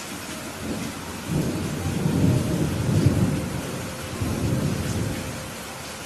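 Steady rain with a rumble of thunder that builds about a second in, peaks in the middle, swells once more and dies away near the end.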